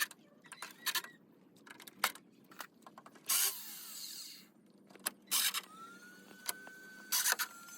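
Irregular knocks, clicks and clatter of hand work on wood, with a short scraping stroke about three seconds in. A thin steady tone comes in near the end.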